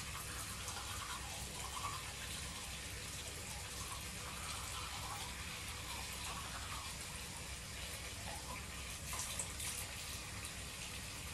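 Sink tap running steadily.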